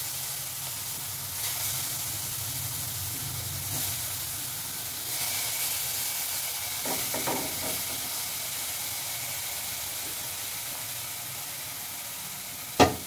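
Eggplant slices sizzling as they fry in a little oil in a frying pan, a steady hiss. A sharp knock near the end.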